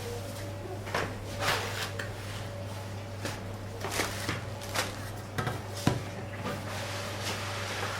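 Kitchen clatter at a food counter: about seven scattered knocks and clicks of containers and utensils being handled, over a steady low hum.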